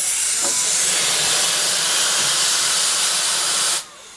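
Steam locomotive venting steam with a loud, steady hiss that cuts off suddenly near the end.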